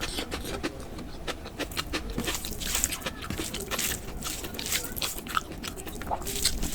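A person chewing and eating a meal of khichdi and chicken curry close to the microphone: a steady run of quick, wet mouth clicks and smacks.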